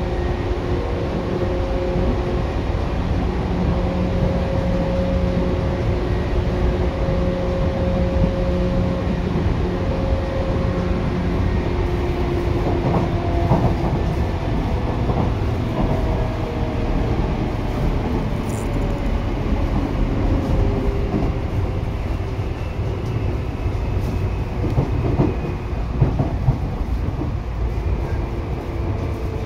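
8500 series electric train running at speed, heard from inside the car: steady whine from its Hitachi traction motors over wheel and rail rumble, with the tones drifting in pitch in the second half. A few sharp knocks from the track come near the end.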